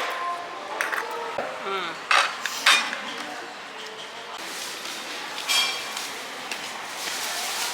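Dishes and cutlery clinking, a few sharp knocks and clinks over a steady background murmur, with brief low speech near the start.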